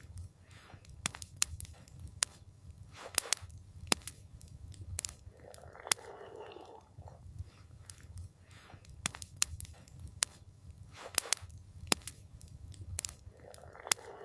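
Wood campfire crackling, with sharp pops and snaps scattered irregularly over a low steady rumble. A soft rushing swell comes around the middle.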